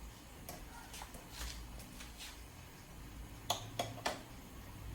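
Quiet kitchen sounds while butter melts in a pan on the stove: a few light clicks and taps, three close together about three and a half seconds in, over a low steady hum.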